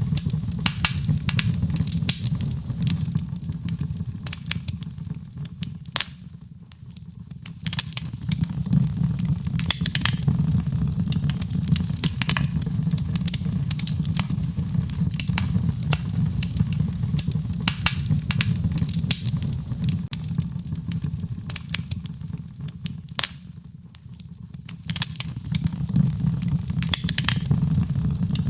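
Wood fire crackling, with irregular sharp pops over a steady low rumble of flame. The sound dips briefly twice, about seven seconds in and near twenty-four seconds.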